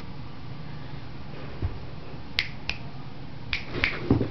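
A handful of sharp, short clicks or snaps, about five spread over the last two seconds, with a dull low thump near the end.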